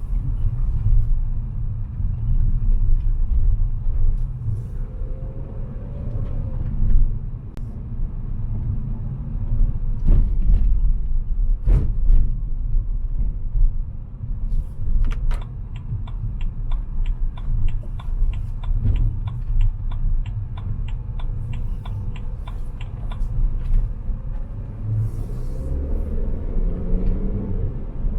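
Car driving on wet city streets: a steady low rumble of engine and tyre noise. A few sharp knocks come in the middle, followed by an even ticking, about two and a half ticks a second, that lasts some eight seconds.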